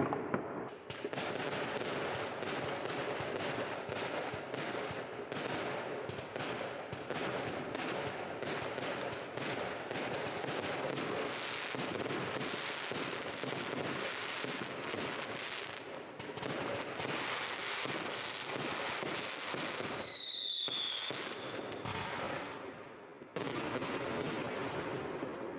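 Many fireworks going off at once: a continuous crackle of bangs and pops, with a high whistle, falling slightly in pitch, about twenty seconds in.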